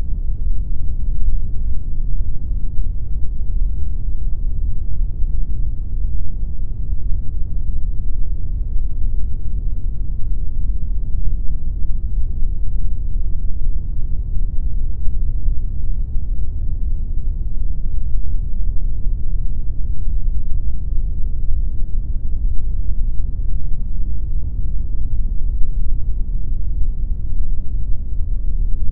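Steady synthetic pink noise: a constant, even rush with no changes, its weight in the low end and little in the treble.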